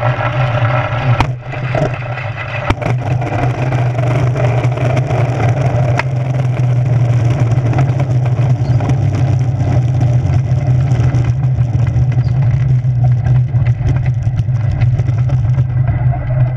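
Steady low drone and rush of a moving aircraft heard from its onboard camera during a test run, with a few sharp clicks in the first several seconds.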